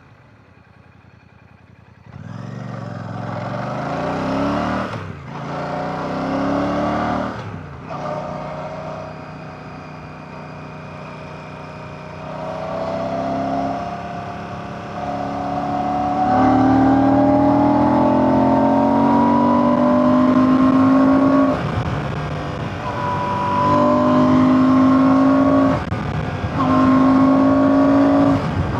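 Royal Enfield Classic 650's 648cc air/oil-cooled parallel-twin engine under way. It starts quiet, then comes up and pulls with a rising pitch through the gears, with several brief drops as gears are shifted.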